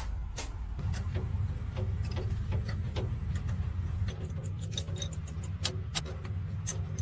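Sharp irregular clicks and taps over a steady low hum, the clicks coming faster after about four seconds.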